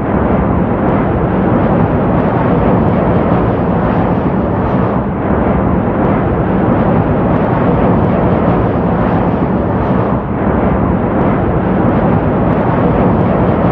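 Steady, loud rushing roar, with brief slight dips about five and ten seconds in.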